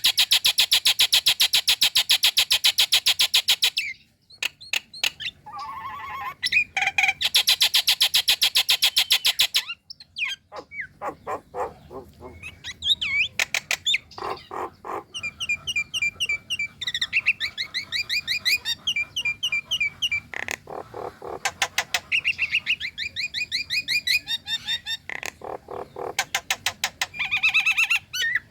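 Nias hill myna calling: two long, loud runs of rapid harsh repeated notes, then quicker trills and chattering series of short notes that slide up and down in pitch.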